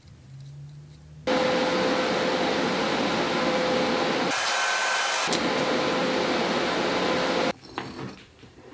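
Electric power tool running for about six seconds, starting and stopping abruptly. About halfway through it turns harsher and higher for about a second.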